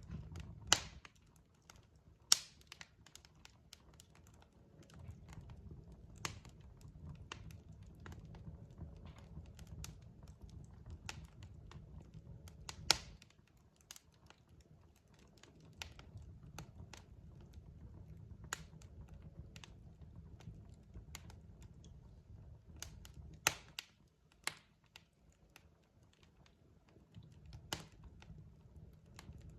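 Wood fire crackling: irregular sharp pops and snaps from burning logs, a handful of them much louder, over a low rumble that fades and returns.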